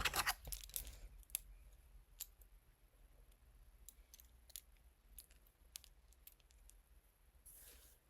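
Faint small clicks and rustles of hands fitting a piercing earring: a quick cluster of clicks in the first second, then scattered single clicks.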